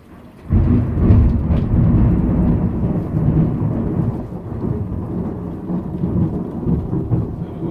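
Thunder from a close lightning strike: a sudden loud crash about half a second in, then a heavy low rumble that slowly fades.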